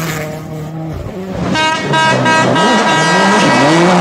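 Rally car engine running with its pitch rising and falling as the throttle works. About one and a half seconds in, a loud steady horn-like tone joins it and holds.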